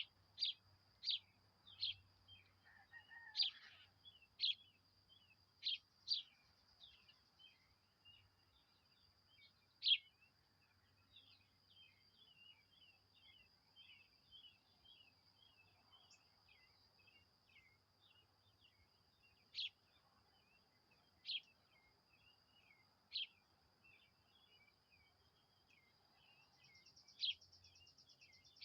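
Small birds calling: loud, sharp single chirps every second or so at first, then a few seconds apart, over a continuous soft twittering. A faint steady high tone runs underneath.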